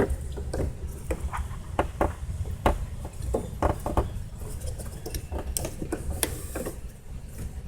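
Irregular small clicks and taps of hard plastic and metal parts handled by hand, as fuel-line safety clips and connectors on a fuel pump assembly are worked loose, over a steady low rumble.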